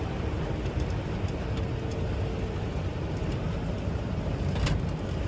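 Semi-truck driving, heard from inside the cab: a steady low engine and road drone, with a faint brief tone early on and a single short click near the end.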